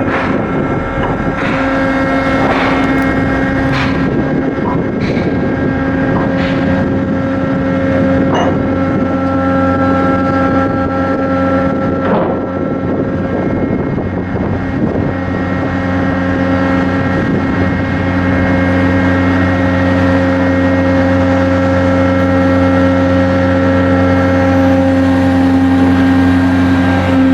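Ship's diesel machinery running steadily during a sea trial: a constant hum with several steady tones, and a few scattered knocks in the first half.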